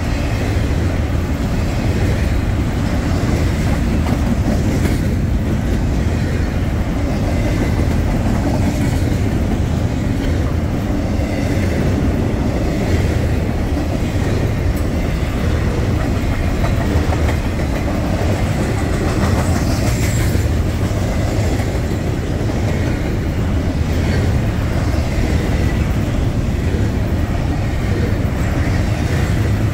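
Double-stack intermodal freight train's container well cars rolling past: a steady, loud rumble of wheels on rail with scattered clicks of wheels over rail joints.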